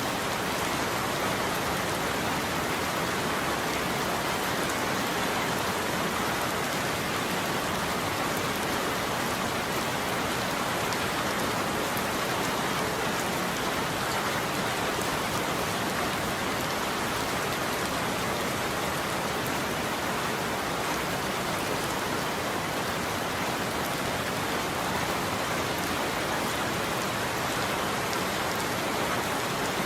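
Steady heavy rain falling on a roof, an even hiss of many drops with fine scattered taps; no thunder in this stretch.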